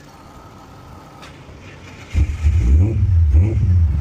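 Ford Fairmont's engine catching on a jump-pack-assisted start about two seconds in, then revving unevenly as it runs. It comes after a flat battery.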